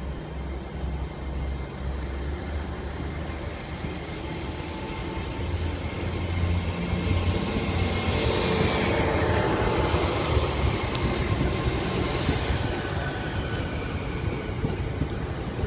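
Hitachi Class 802 bi-mode train pulling out and accelerating past. A low rumble runs under a high whine that rises in pitch as it gathers speed, peaks in loudness around eight to ten seconds in, then drops in pitch as the train moves away.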